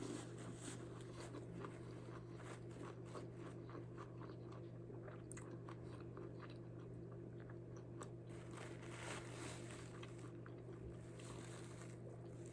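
A person chewing and biting food close to the microphone, with faint crunches and small clicks, over a steady low hum.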